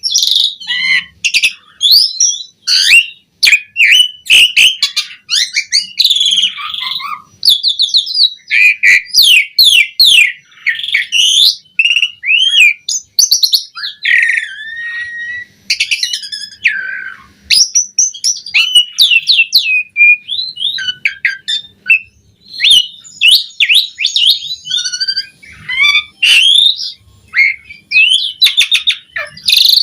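Asian pied starling singing a rapid, varied song of whistles, chatters and harsh rasping notes in quick succession with short pauses between phrases.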